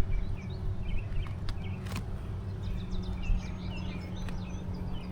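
Honeybees buzzing around an open hive, a steady low hum, with birds chirping in the background. A sharp click about two seconds in.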